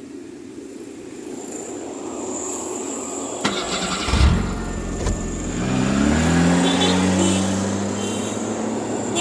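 A vehicle engine that starts up, rising in pitch and then holding a steady low note, after a sharp click and a few low thumps in the middle.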